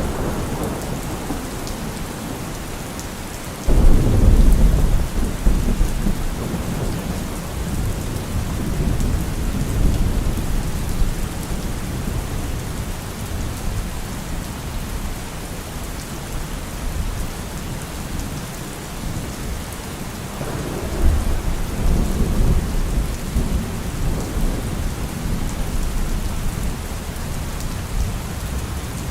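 Steady rain falling, with rolling thunder: a rumble breaks in suddenly about four seconds in and dies away over several seconds, and a second one swells up near the last third.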